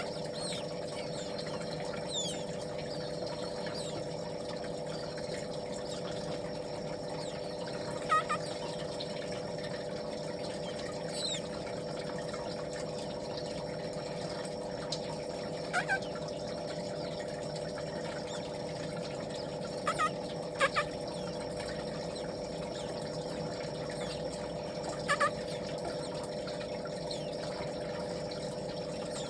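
Baby birds peeping in short, high, falling chirps every few seconds over a steady machine hum.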